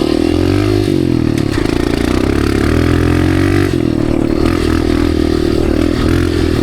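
Dirt bike engine and exhaust running under load, the revs falling and rising several times with steady stretches between, as the bike rides over hard sand.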